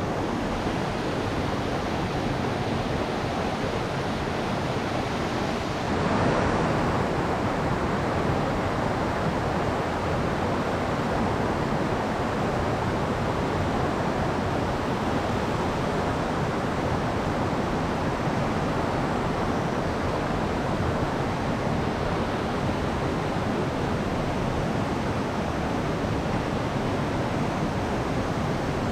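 Mountain stream rushing over rocks: a steady, even rush of flowing water that steps up slightly about six seconds in.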